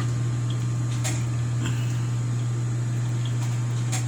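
A steady low electrical or mechanical hum, with two faint clicks, one about a second in and one near the end.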